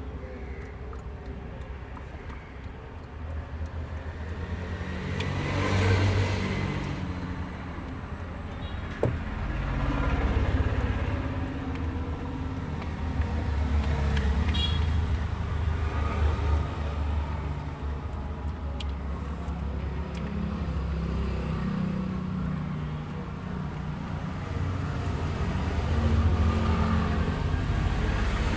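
Motor vehicle engine running with road traffic around it, a low rumble that swells and fades as vehicles pass. There is a short high toot about halfway through.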